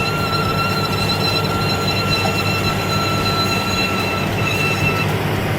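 Heavy machine's diesel engine running steadily under a constant high-pitched whine, which cuts off about five seconds in.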